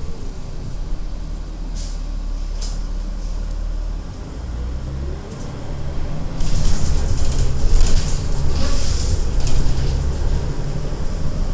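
City transit bus running, heard from inside the cabin: a steady low engine rumble with a couple of clicks early on. About six seconds in it gets louder, with a loud hiss over a heavier rumble.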